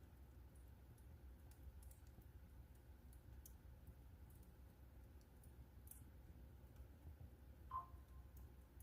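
Wood fire in a fireplace crackling faintly: scattered small pops over a low steady rumble, with one slightly louder ringing tick near the end.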